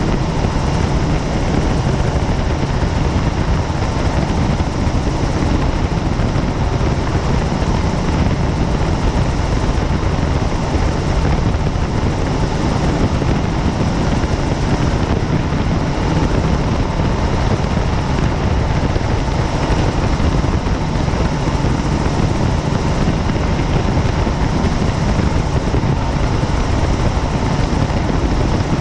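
Helicopter in flight, heard from inside the cabin: steady, loud engine and rotor noise with no change in pitch or level.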